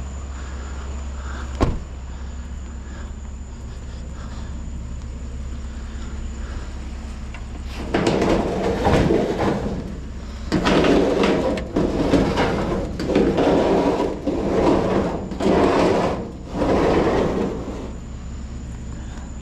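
A truck's engine runs with a steady low hum, with one sharp knock about a second and a half in. From about eight seconds in, a run of loud, uneven noises lasting about a second each sounds over it.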